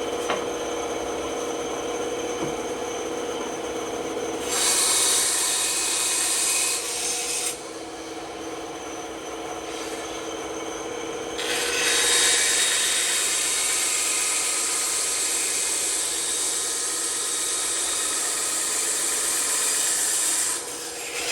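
Bandsaw running with a steady hum, its blade cutting through wood in two passes: a short cut of about three seconds starting about four seconds in, then a longer one of about nine seconds from about eleven seconds in. The cuts follow curved, rounded lines.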